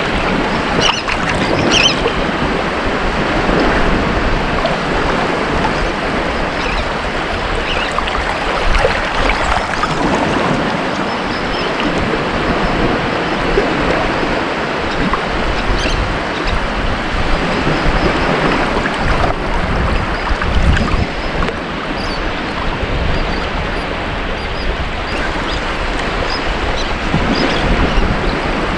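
Ocean surf washing onto a beach: a continuous rush of waves that swells and eases gently.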